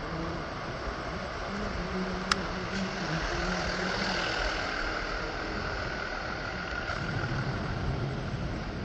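Steady city traffic noise, with a single sharp click about two seconds in and a faint high whine through the middle.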